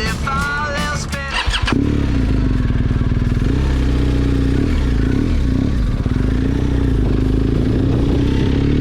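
Rock music with singing that ends abruptly a second and a half or so in, giving way to a motorcycle engine running steadily, its pitch wavering a little.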